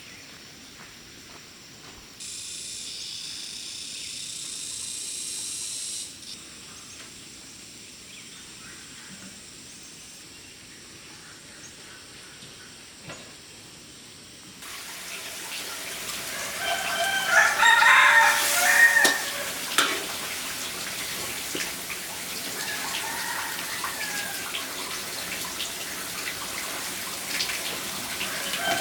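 A rooster crowing, loudest a little over halfway through, with shorter fowl calls later, over a steady rush like running water that starts about halfway.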